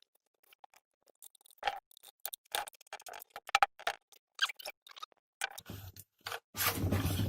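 Irregular clicks, taps and clinks of tools and small metal parts being handled during generator repair work, then a louder mechanical buzz lasting about a second near the end.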